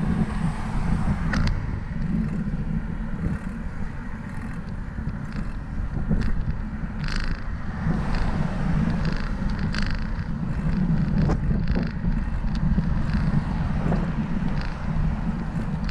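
Wind rushing over the microphone of a camera riding on a moving bicycle: a steady low rumble with scattered small clicks.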